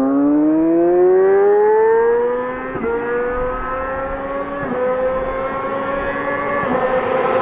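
Kawasaki ZX-10R inline-four with an SC Project SC1 exhaust accelerating hard at full throttle. The engine note rises steadily and breaks three times for quick upshifts, about every two seconds.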